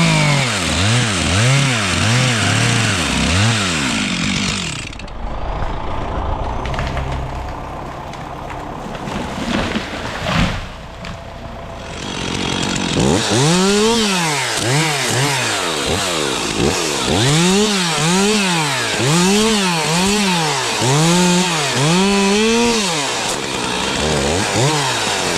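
Stihl chainsaw cutting, its engine speed rising and dropping back over and over, about once a second. From about 5 to 12 seconds in it runs quieter and steadier, with a single sharp knock near the middle, before the rapid revving resumes.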